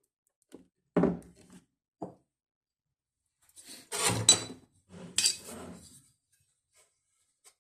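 Hard objects being handled, knocking and clinking against each other: a sharp knock about a second in, a lighter one a second later, then two longer clattering stretches.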